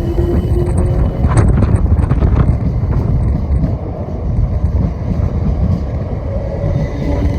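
A passing passenger train: a loud, steady low rumble with a few sharp clicks about a second in, and wind buffeting the microphone.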